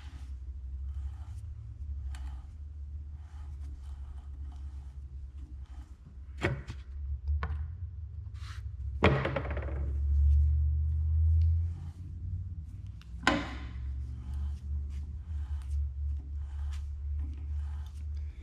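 Hand threading die being turned on a steel bolt clamped in a vise, lubricated with cutting oil: faint repeated scraping strokes as the die cuts, a few sharp metal clinks, over a steady low hum.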